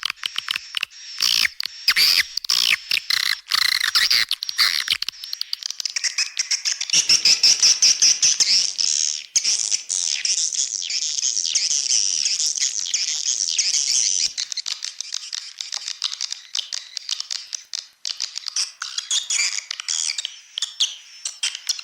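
Swiftlet lure recording: a dense, continuous chatter of high swiftlet chirps and clicks, thickening into a fuller twittering chorus in the middle. This is a call track played at a swiftlet house's entrance hole to draw swiftlets in.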